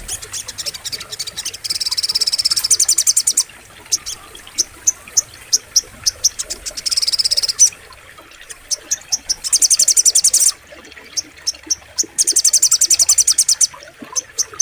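Sogok ontong bird singing: high, rapid trills in bursts of one to two seconds, with single sharp chirps between them.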